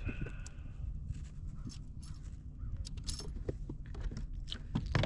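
Scattered light clicks, knocks and scrapes of gear being handled on a kayak, with a louder knock near the end, over a steady low rumble.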